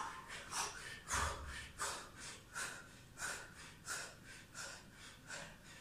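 A person breathing out sharply in a steady rhythm, about once every two-thirds of a second, as they exert themselves in a boxing workout. There is a brief low bump about a second in.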